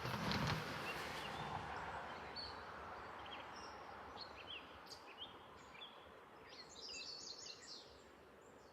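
Small birds chirping, many short high calls scattered throughout, over a steady outdoor background noise that slowly fades. There is a brief louder rush in the first second.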